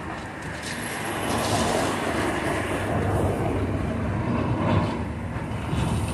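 Low, steady engine rumble that grows louder about a second and a half in and eases near the end.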